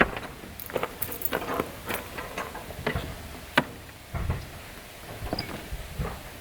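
Irregular metallic clinks and taps of hand tools working on a tractor engine, with a sharp clank about three and a half seconds in and a dull thump just after four seconds.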